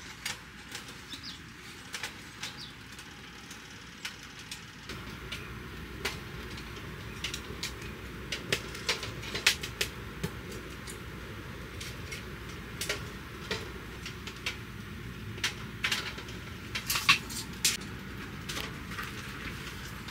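Irregular small clicks and taps over a steady hiss, with a low rumble coming in about five seconds in.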